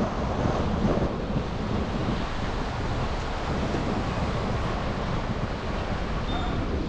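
Steady rush of driving noise heard from a car-mounted camera: wind buffeting the microphone over the hum of the car and tyres on the road.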